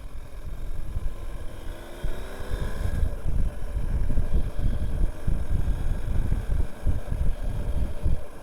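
Wind buffeting the microphone on a moving BMW R 1250 GS motorcycle, with its boxer-twin engine rising in pitch as the bike accelerates between about one and three seconds in.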